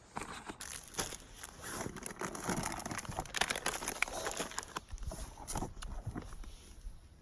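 Rustling handling noise with many scattered light clicks and knocks, busiest through the middle.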